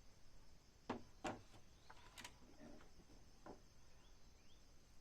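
Near silence broken by a few faint knocks, the loudest two close together about a second in.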